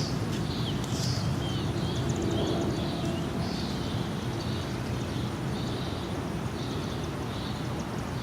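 Steady low rumble of a jet airliner flying overhead, with a bird chirping repeatedly in short high notes.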